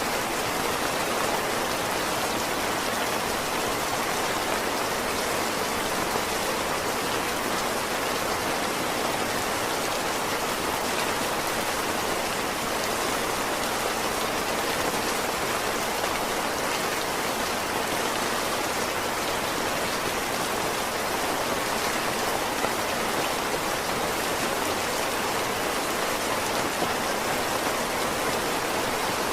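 Heavy rain falling steadily, an even, unbroken hiss of many drops with no single sound standing out.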